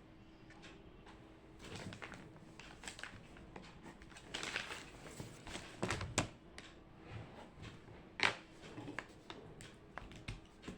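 Small handling noises of someone studying at a desk: scattered clicks, taps and short rustles, with a sharp click about eight seconds in, over a faint steady hum.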